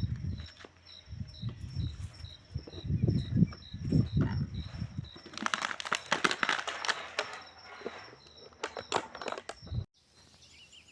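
A cricket chirping steadily, about two chirps a second, over low muffled bumps, then a few seconds of rustling, crackling noise before the sound cuts off abruptly near the end.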